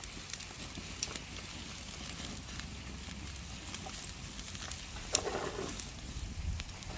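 A rain shower starting: scattered drops pattering and tapping over a steady soft hiss, with a brief louder patch a little after five seconds.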